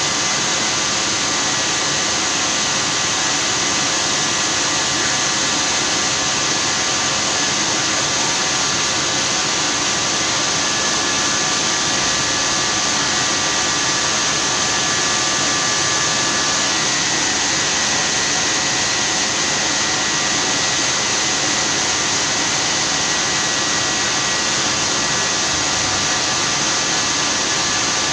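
Lathe running steadily while machining a bush: a continuous whirring hiss with a few faint whining tones that shift slightly in pitch about 17 seconds in.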